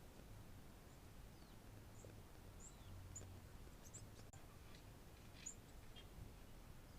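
Faint, scattered high-pitched chirps of small birds, some of them quick downward-sliding calls, over a faint low hum.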